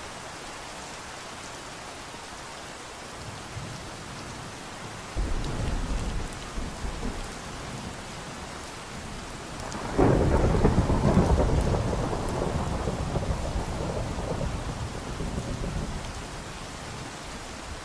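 Steady rainfall with thunder: a short low rumble about five seconds in, then a louder rolling peal about halfway through that slowly dies away.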